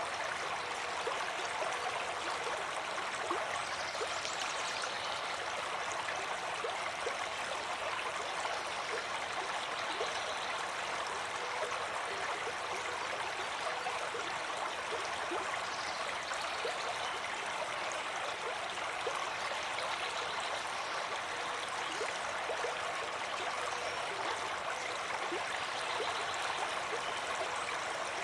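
Stream water flowing steadily, babbling and gurgling over rocks with small splashes.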